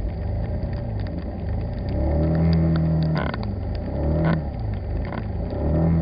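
Car engine heard from inside the cabin, its pitch climbing and dropping a few times as the car accelerates, with scattered light clicks over it.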